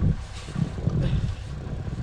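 Storm wind buffeting the microphone: an uneven low rumble that swells and fades.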